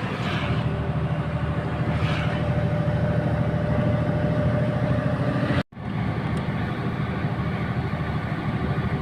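Steady drone inside a KamAZ 4308 truck cab at road speed: the diesel engine running under a constant load, with road noise and a steady whine. It drops out for an instant a little past halfway through, then carries on unchanged.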